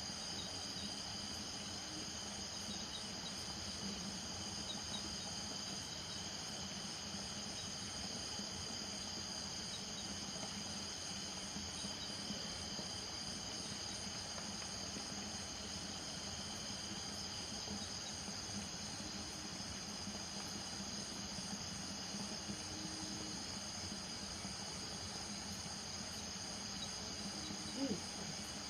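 Night chorus of crickets trilling steadily, with frogs giving short low calls every few seconds. A brief, louder rising call sounds near the end.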